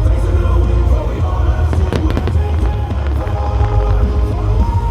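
Fireworks going off in a barrage, a constant low rumble with a few sharp bangs around the middle, over music with held tones.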